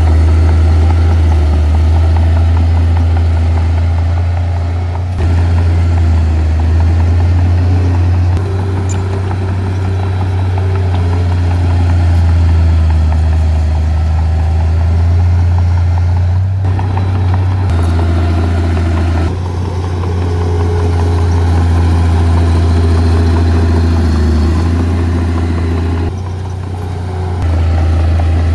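Heavy earthmoving machinery's diesel engine running steadily with a deep, low drone. The level shifts abruptly several times and dips briefly near the end.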